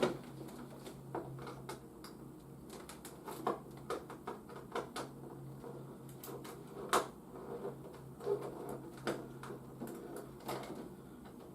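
Irregular small clicks and taps of a hard plastic toy van and a screwdriver being handled while its battery compartment is opened, over a faint steady low hum.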